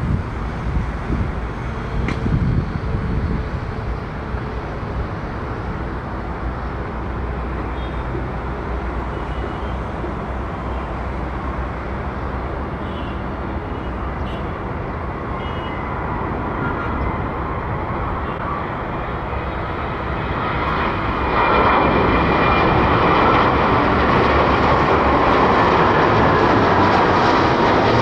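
Airbus A319 jet engines running with a steady rumble that swells louder about twenty seconds in.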